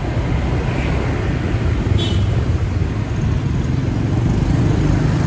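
Steady motorcycle engine and road noise from riding in traffic, with a brief high beep about two seconds in.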